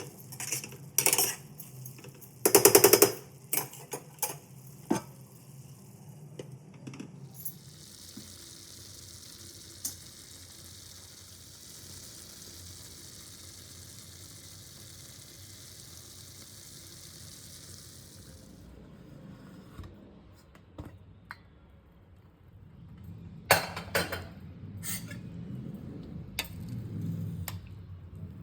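A metal spoon clinking and scraping against a cooking pan while curry is stirred, loudest in a burst of knocks early on and again near the end. In between, a steady sizzling hiss runs for about ten seconds and stops abruptly.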